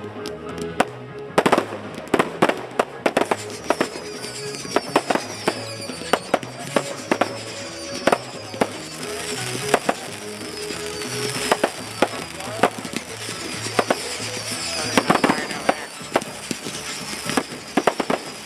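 Aerial fireworks going off in a rapid, irregular run of sharp bangs and pops, with repeated high whistles that fall in pitch. Music plays underneath.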